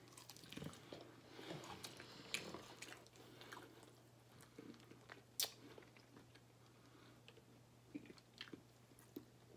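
Faint close chewing and crunching of fried chicken, with scattered small clicks and one sharper click about five and a half seconds in.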